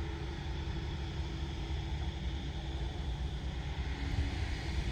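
Dump truck's diesel engine pulling up out of a pit under load, a steady low rumble.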